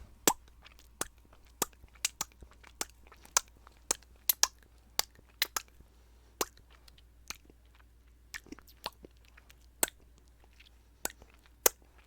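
Close-miked ASMR mouth sounds: sharp, wet mouth clicks and pops, irregular at roughly two a second.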